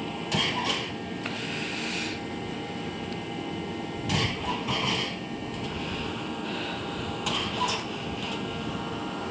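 1966 Dodge Coronet engine running at a steady idle on a cold start, with three short louder surges: one right at the start, one about four seconds in and one about seven seconds in.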